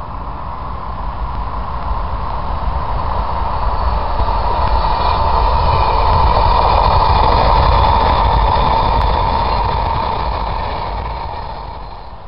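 High-speed express passenger train passing at speed on plain line. It grows louder to a peak about halfway through, then fades as it moves away.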